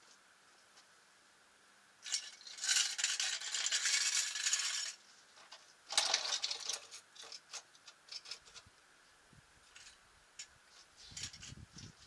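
Small metal parts clattering and rattling for two to three seconds, again briefly about six seconds in, then scattered light clinks.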